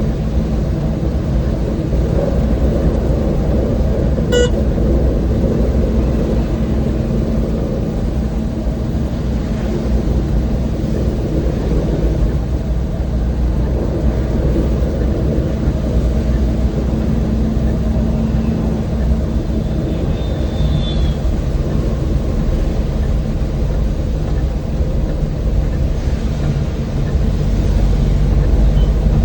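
An old van's engine running with steady road rumble as it drives, and a short vehicle horn toot about four seconds in.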